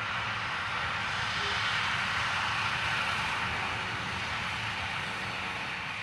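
Clyde Engineering T-class diesel-electric locomotives and their train running by, a steady rumble under a broad hiss that swells slightly and then eases away near the end.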